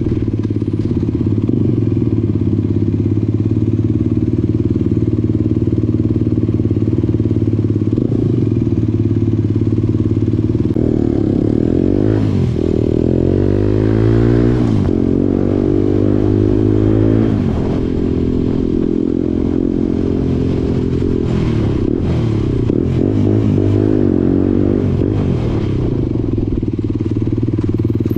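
Motorcycle engine running at a steady note. About eleven seconds in, the revs climb and drop three times in a row, the pattern of a motorcycle accelerating and shifting up through the gears, before it settles back to a steady cruise.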